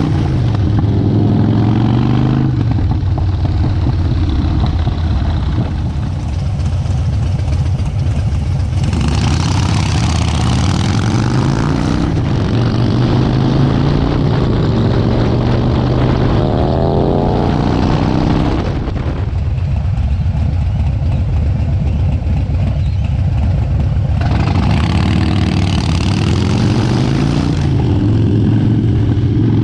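Harley-Davidson V-twin motorcycle engine running steadily under way. About halfway through its note climbs as the bike speeds up. Wind rush on the microphone comes and goes.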